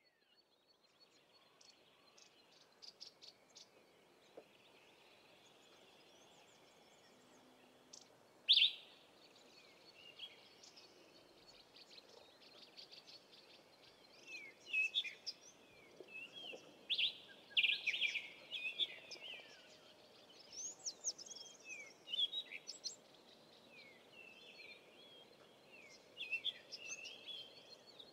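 Wild birds calling and chirping: short chirps and quick whistled slides, sparse at first and busier from about fourteen seconds in, with one loud sharp call about eight seconds in, over a faint steady hiss.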